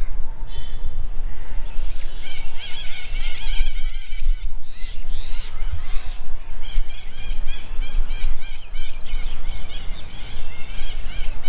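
A group of birds calling: many short, high, squealing chirps repeated rapidly, starting about two seconds in and thickest in the second half, over a constant low rumble.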